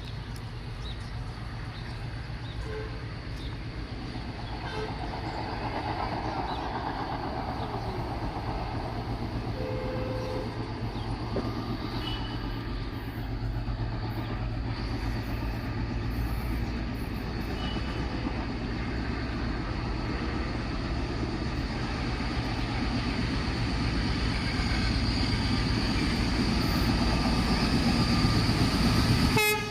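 Goods train of open freight wagons rolling along the track, a steady rumble of wheels and wagons that slowly grows louder.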